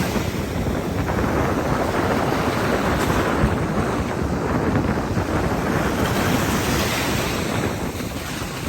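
Strong wind buffeting the microphone with a low rumble, over ocean surf washing onto the beach in a steady rush.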